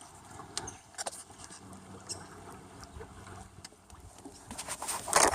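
Canoe on a river: faint scattered knocks and water sounds, then one louder paddle stroke swishing through the water near the end.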